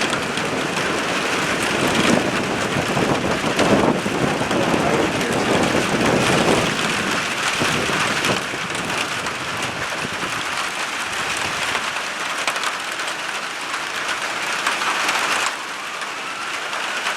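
Rain falling steadily, with many fine drop ticks, easing a little in level near the end.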